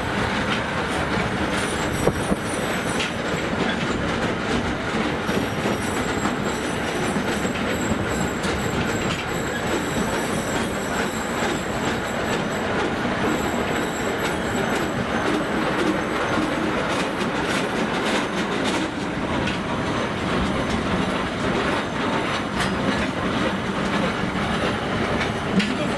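Narrow-gauge forest railway passenger train running, heard from aboard a passenger car: a steady rumble of wheels on rail with occasional clicks and a thin, high wheel squeal.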